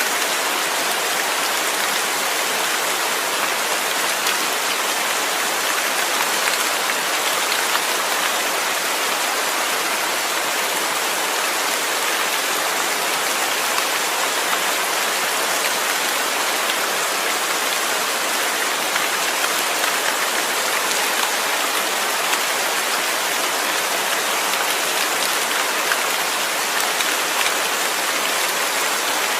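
Steady rain falling on a surface: a constant, even hiss of drops with no pauses.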